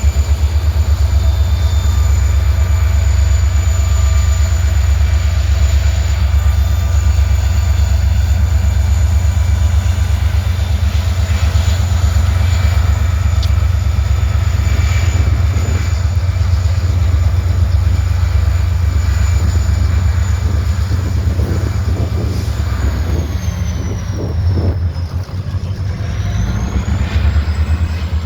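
Train running close by with a loud, steady, deep rumble. Near the end a high whine dips and then rises again.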